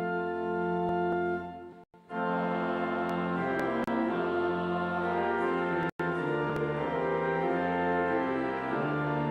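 Brass quintet playing slow, held chords. A chord fades out about a second and a half in and the ensemble comes back in with new chords. There are two brief dropouts in the sound.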